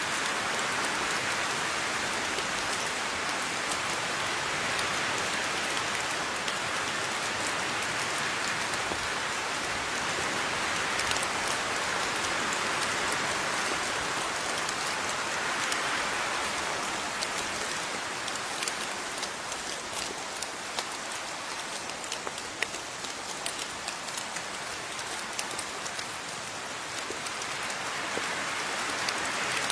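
Steady rain falling, with the patter of individual drops hitting a surface over the continuous hiss; it eases a little past the middle and builds again near the end.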